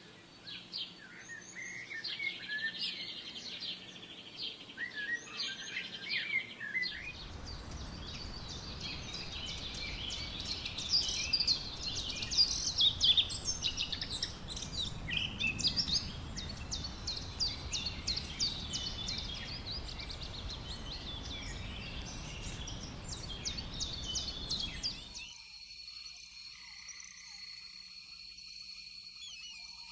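Forest birds singing and chirping in quick, dense high notes, over a steady rushing noise for most of the time. Near the end the rushing stops abruptly and a steady high insect-like drone takes over, with few bird notes.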